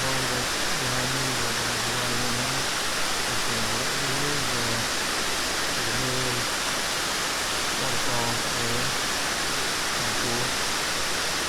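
A steady, loud rushing noise with soft background music of held low notes underneath.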